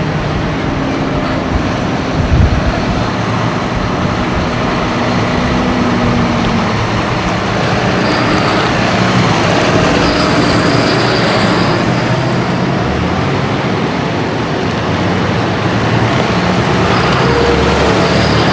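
Farm tractor diesel engines running steadily, with the steady drone of several machines on the road.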